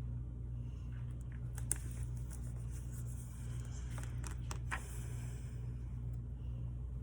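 Steady low hum with a few light clicks and rustles: small hand-handling noises, loudest a little under two seconds in and again around four to five seconds in.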